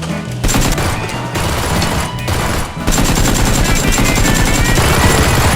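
Rapid automatic gunfire over background music, starting about half a second in.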